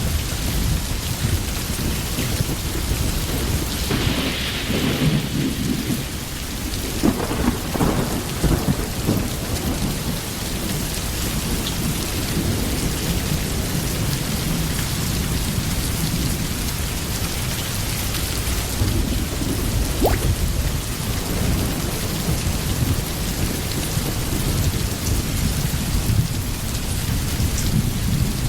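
Steady rain with a low rolling rumble of thunder underneath, swelling a few times between about four and nine seconds in.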